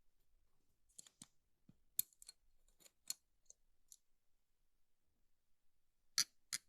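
A run of short, sharp clicks and taps, about a dozen in the first four seconds, then two louder clicks in quick succession near the end.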